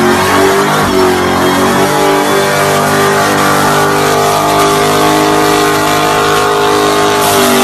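Dodge Charger's engine revving hard during a burnout while its rear tyres spin in smoke. The revs bounce up and down at first, then hold at a steady high pitch from about two seconds in.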